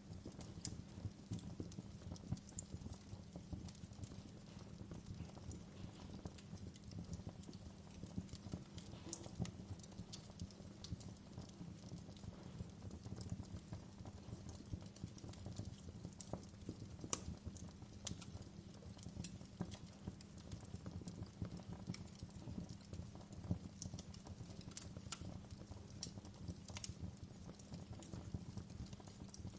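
Fire crackling: a steady low rumble under dense, irregular pops and snaps, with a few sharper snaps scattered through.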